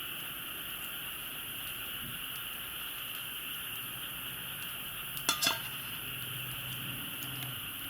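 Two quick metal clinks, a utensil knocking on cookware, about five seconds in, over a steady high-pitched chorus of insects.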